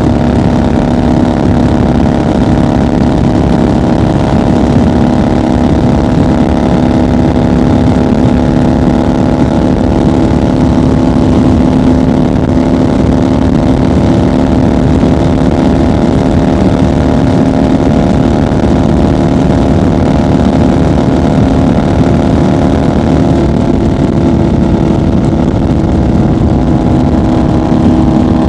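1990 Harley-Davidson FXR's 1340 cc Evolution V-twin at a steady highway cruise, running loud at nearly constant revs.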